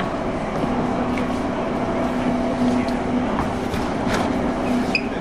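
JR 201 series electric train heard inside a MoHa 200 motor car while running: traction motors, gears and wheels on rail make a steady rumble, with a steady hum tone setting in about a second in. There is no chopper-control whine, as this car carries none.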